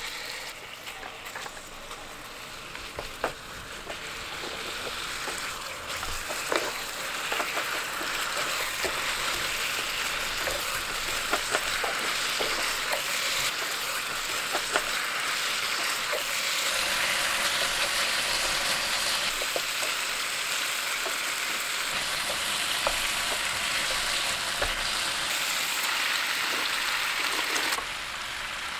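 Chili-paste-marinated chicken sizzling as it fries in a frying pan, with the taps and scrapes of a wooden spatula stirring it. The sizzle grows louder over the first several seconds and holds steady, easing slightly near the end.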